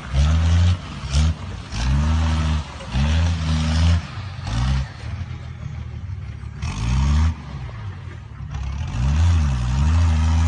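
Diesel pickup truck engine revved repeatedly in short blips, its pitch rising and falling with each one and easing off between them.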